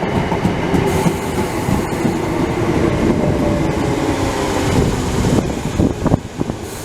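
Class 317 electric multiple unit running into the platform, its wheels and motors making a steady loud running noise with a low hum; the noise drops away about five and a half seconds in as the train slows.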